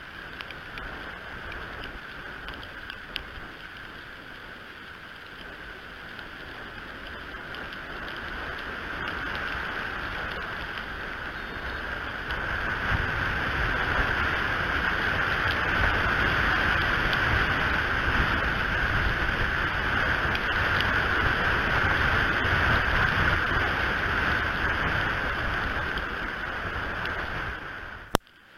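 Strong wind blowing through the eagle nest and buffeting the camera's microphone, a steady rushing with a low rumble that builds over the first half. It cuts off suddenly with a click near the end.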